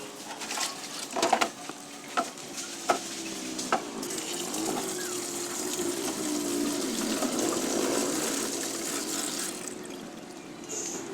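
Water running from a kitchen tap, with a few sharp clicks of kitchenware in the first four seconds; the running water fades near the end.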